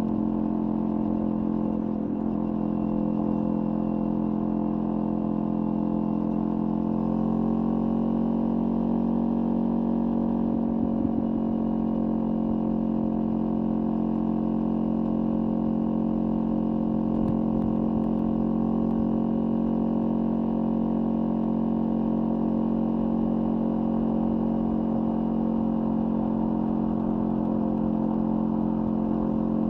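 Kawasaki Ninja 400's parallel-twin engine through a LeoVince aftermarket exhaust, running at a steady pitch, which steps up slightly about seven seconds in.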